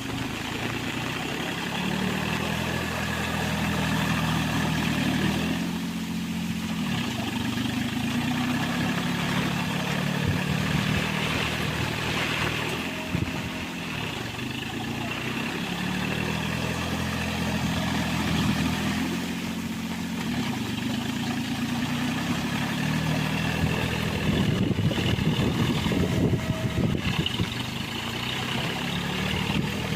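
John Deere mini tractor's engine running while working a rotavator, its pitch rising and falling every few seconds. A spell of sharp knocks comes in the later part.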